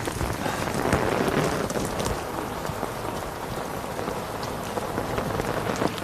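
Steady heavy rain falling, with many individual drops striking close by.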